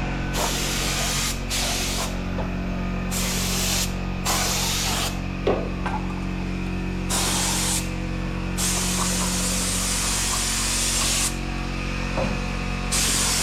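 MIG welder arcing in short bursts on car body panels: a frying hiss and crackle that starts and stops about seven times, over the welder's steady hum.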